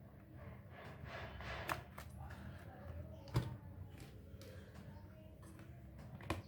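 Light handling noise and a few sharp plastic clicks as a RAM stick is pulled from a desktop motherboard's memory slot and pushed into another one. The loudest click comes about three and a half seconds in, with another just before the end.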